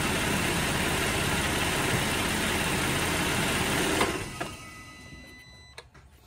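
Holden Alloytec V6 idling with its oil filler cap off, then switched off about four seconds in and running down to quiet, with a few faint clicks after. The crankcase ventilation (PCV) is probably blocked.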